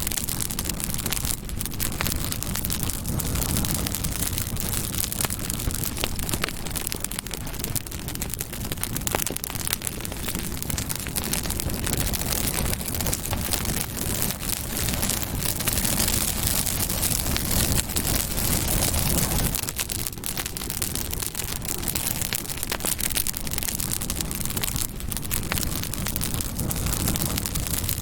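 Campfire burning steadily, crackling and popping with many small sharp snaps over a low rumble of flame.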